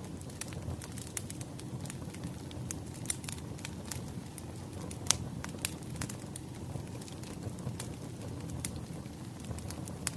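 Wood fire crackling: scattered sharp pops and snaps over a steady low rumble, with one louder pop about five seconds in.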